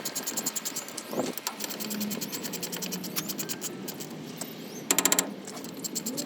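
Hand ratchet wrench clicking as bolts are turned, with a quicker, louder run of clicks about five seconds in.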